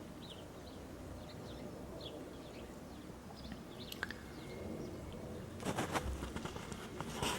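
Faint birds chirping, short scattered calls over a low background hum, with a sharp click about four seconds in and a run of clicks and rustles near the end.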